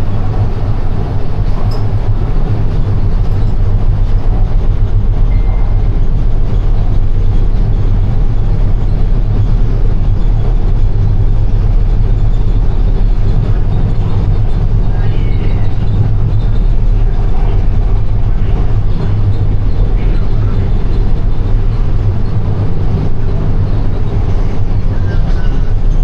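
Steady low rumble of a light-rail train carriage in motion, heard from inside the car.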